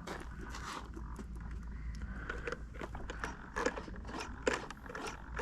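Scattered light clicks and scraping over a steady low rumble.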